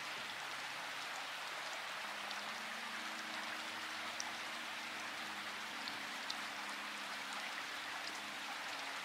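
Steady rain: an even hiss with scattered single drops ticking through it. Faint low held notes shift underneath every few seconds.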